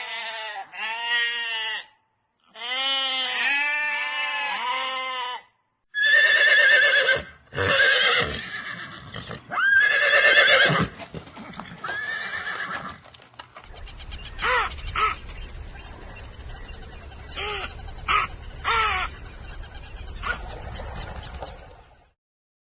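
A run of separate animal-call clips joined by hard cuts: repeated pitched calls, some short and arching, some loud and gliding.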